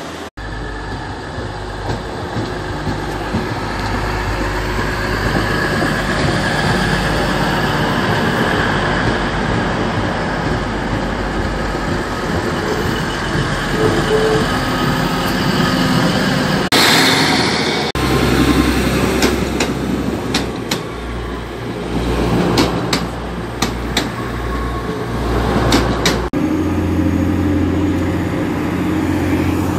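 Diesel multiple-unit trains, including a TransPennine Express Class 185, running along the platform: a steady low engine drone with wheel and rail noise. A run of sharp clicks comes in the later part.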